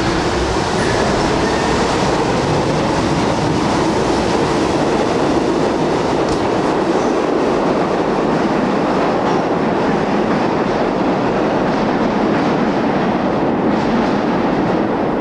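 A red Marunouchi Line subway train of the 300/500-series family running on the track: a steady, loud noise of wheels and running gear throughout.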